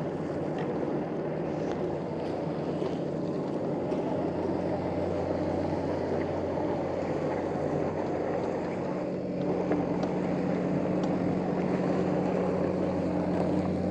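Diesel engine of a heavy plant machine running steadily at a constant low hum, growing a little stronger about nine seconds in.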